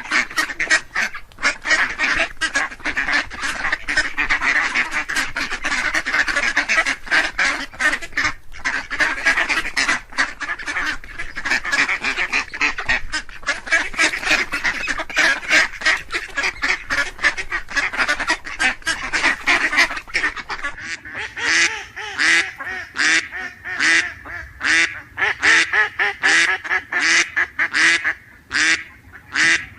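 Ducks quacking: many calls overlapping at first, thinning about two-thirds of the way through to single, evenly spaced quacks at about one and a half a second.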